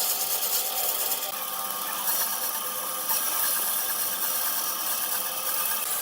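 A tool working wood, giving a steady, continuous noise with faint steady tones running through it.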